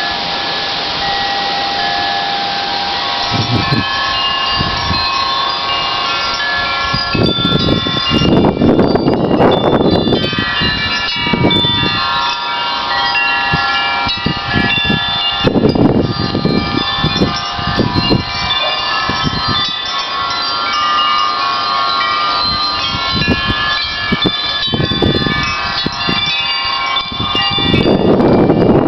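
Wind chimes ringing continuously, many overlapping tones, in gusty wind. Several strong gusts rush across the microphone, the loudest about a third of the way in and near the end.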